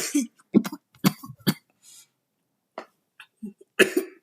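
A person coughing hard after a hit from a disposable THC vape: four sharp coughs in the first second and a half, then more coughs near the end.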